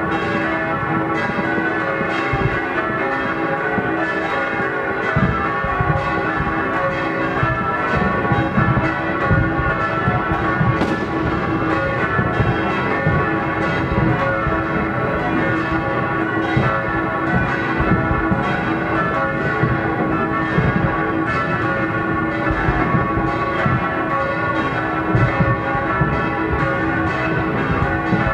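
Church bells pealing continuously, several bells ringing together, with frequent dull thuds of New Year's fireworks going off beneath them.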